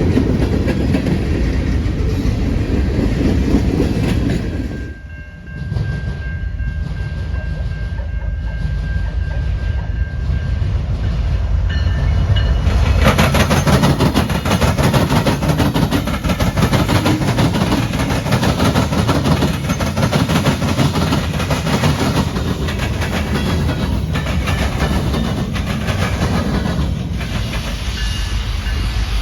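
A train passing close by, its low rumble joined by rapid clicking of wheels over rail joints. A thin steady high tone is heard for about five seconds, starting about five seconds in.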